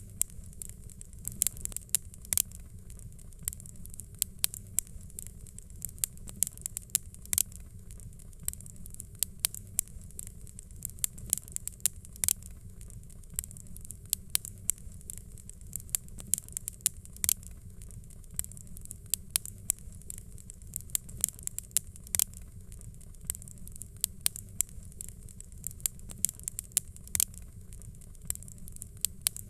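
Fire crackling, with sharp, irregular pops several times a second over a steady low rumble and hiss.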